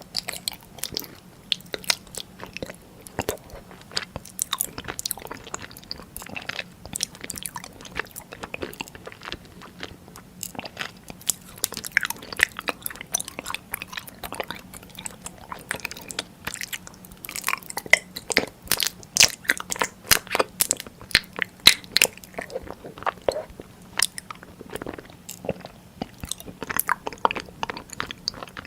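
Close-up crunching and chewing of crunchy chocolate snacks, with irregular crisp crackles from the bites. A faint steady hum sits underneath.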